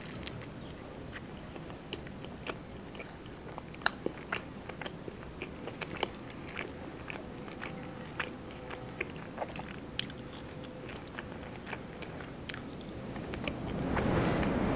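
Close-miked chewing and biting while eating a shawarma wrap and fries: wet mouth clicks and soft crunches scattered throughout, a few sharper ones standing out. A broad rush of noise swells near the end.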